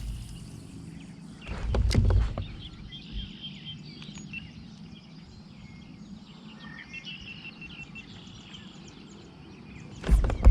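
Outdoor ambience with short high bird notes in the background. A burst of low rumble and knocks about two seconds in, and more knocks starting near the end.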